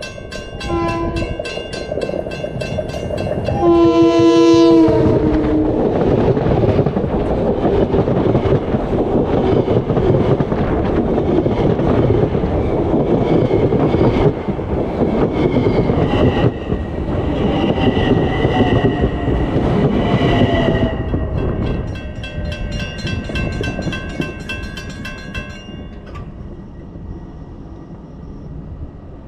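Train horn sounding a chord, short at first and then a loud blast about four seconds in, followed by the train passing with a steady rumble and clatter of wheels on rail that fades away after about twenty seconds.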